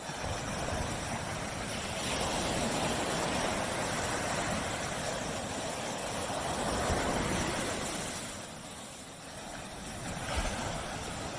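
Surf washing onto a beach: a long surge of breaking waves that swells and then ebbs, with the next wave building near the end.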